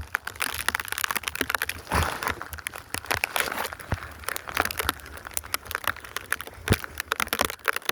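Snow crunching and rustling close to the microphone in a dense run of small crackles, as deep fresh snow is dug into and pressed by hand.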